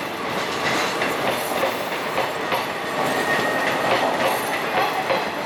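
Passenger coaches of an Indian Railways express train rolling past at speed, wheels clattering over rail joints in a steady run of clacks, with a short high-pitched wheel squeal about three seconds in.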